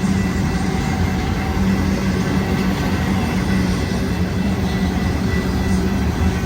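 Intermodal freight train rolling past, a steady rumble of wheels and cars on the rails with a low hum and a faint steady high-pitched tone over it.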